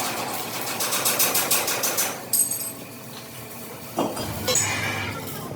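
Rapid, rhythmic mechanical clatter for about two seconds, then a sharp metallic knock, a quieter stretch and another knock about four seconds in.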